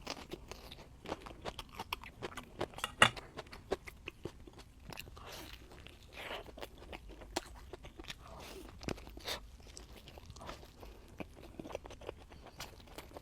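Close-miked eating sounds: irregular wet chewing and crunching bites, with one sharp crunch about three seconds in.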